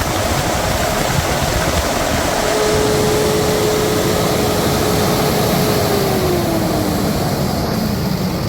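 Cummins ISB 6.7 inline-six turbo diesel running steadily. A whine holds level for a few seconds, then falls in pitch over the last couple of seconds as the revs come down.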